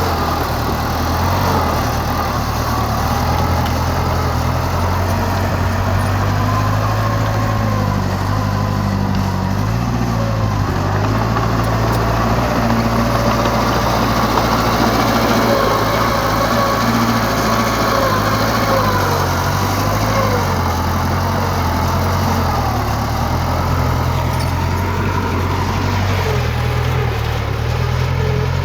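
Heavy earthmoving machinery's diesel engine running steadily, with a low drone and a higher tone whose pitch wavers slightly.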